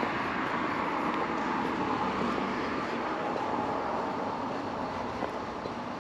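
Steady road traffic noise: the hiss of tyres and engines of passing vehicles, with no single event standing out.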